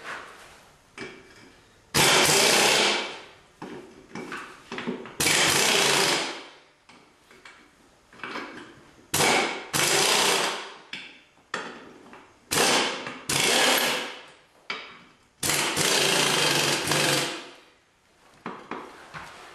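Impact wrench run in five short bursts, each starting suddenly and lasting about a second, on the wheel fasteners of an Allis Chalmers 310 garden tractor as the wheels come off, with lighter clatter of parts between bursts.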